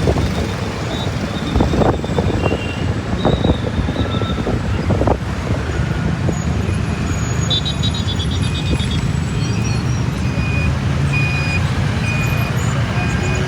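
Motorcycle engine running steadily while riding through city traffic, with a few sharp knocks in the first few seconds. In the second half, a short high beep repeats about once a second.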